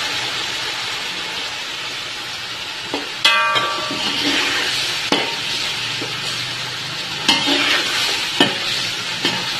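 Chickpea masala sizzling as it is fried and stirred with a metal slotted spoon in a metal cooking pot, the spoon scraping and knocking against the pot several times. One knock about three seconds in rings briefly.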